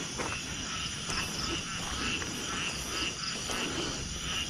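Night chorus of crickets and other insects: a steady, high, pulsing trill, with a few faint knocks.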